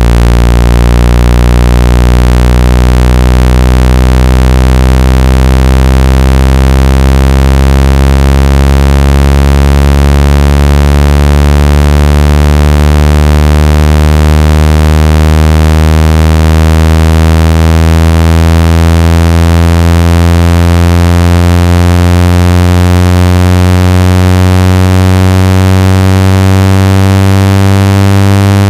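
Synthesized low buzzing tone with many overtones, gliding slowly upward in pitch. It is a speaker water-ejection tone, meant to shake trapped water out of a phone or earphone speaker.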